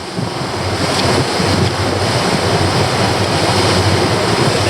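Wind buffeting the microphone over rushing water on a boat under way, building over the first second and then steady.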